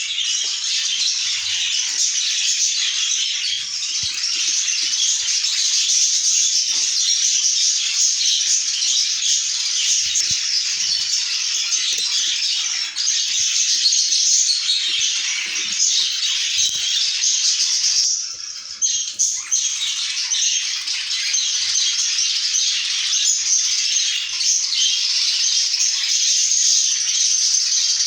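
A flock of budgerigars chattering together, a dense, unbroken mass of high chirps and warbles that thins out briefly about eighteen seconds in.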